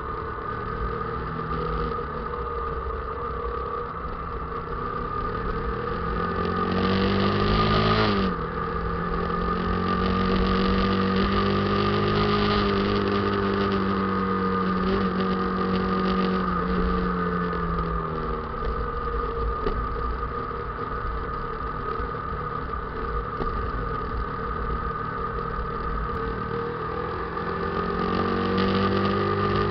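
Motorcycle engine running under way, its revs climbing and then dropping abruptly about eight seconds in, holding steady, easing off and rising again near the end.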